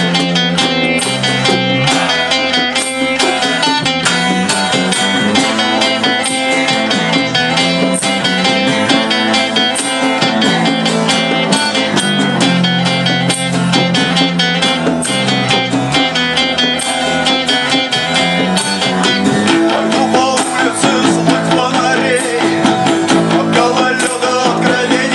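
Live band music: an instrumental break with guitar over bass and a steady beat. A wavering lead line comes in about twenty seconds in.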